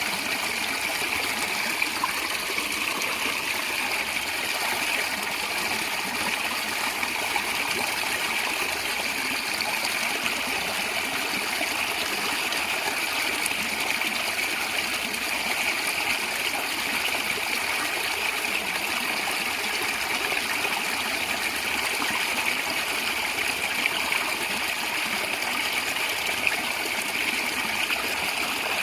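Water of a natural stream running and gurgling steadily over rocks, a constant rushing with small trickles and splashes.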